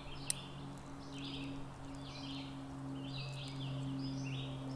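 Birds chirping in short repeated calls, about one or two a second, over a steady low hum, with a single sharp click near the start.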